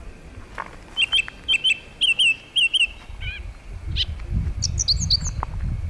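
Small bird calling: a run of short, repeated high chirps for about two seconds, then a few separate calls and quicker, higher notes about five seconds in. A low rumble comes in during the second half.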